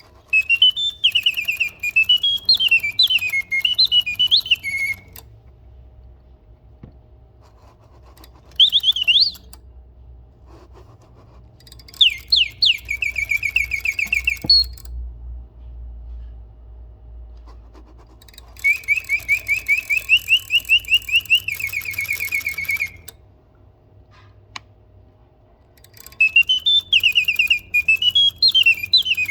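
1950s mechanical singing bird whistling its song: quick warbling chirps and trills in five phrases of one to five seconds each, with short pauses between. A faint low hum runs underneath.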